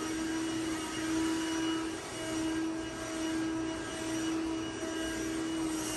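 Shark robot vacuum cleaner running: a steady motor hum with a constant whine over an even hiss of suction.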